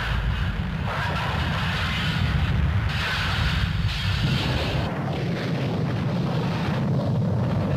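Wind buffeting the microphone over a steady low rumble, with gusts rising and falling.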